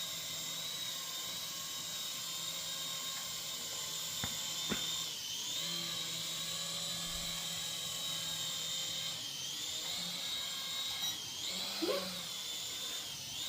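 Small RC AH-64 Apache model helicopter's motor and rotors running with a steady high-pitched whine. The pitch dips briefly about four times as the throttle changes. There are a couple of light clicks about a third of the way in.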